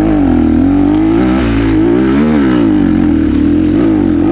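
Single-cylinder enduro motorcycle engine revving hard close by, held high under load. Its pitch wavers, dipping and rising again about two seconds in.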